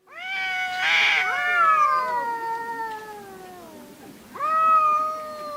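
Domestic cats caterwauling in an aggressive standoff: long drawn-out yowls that slowly fall in pitch, with a brief harsh snarl about a second in. A fresh held yowl starts near the end.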